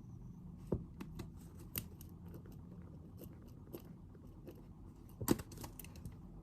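Scattered light clicks and taps of objects being handled on a study desk, with two louder knocks, one about a second in and one near the end, over a low room hum.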